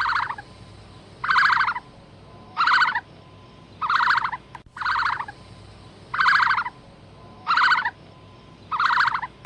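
A large bird calling eight times at a steady pace. Each call is short and harsh, about half a second long, and they come about 1.3 seconds apart.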